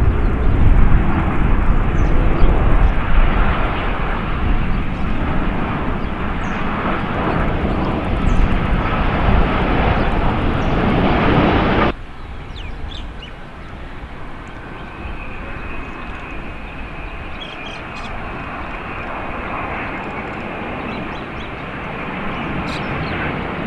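Jet airliner engines: a loud, steady rush of jet noise that drops off abruptly about halfway through, giving way to a quieter jet with a thin, steady high whine.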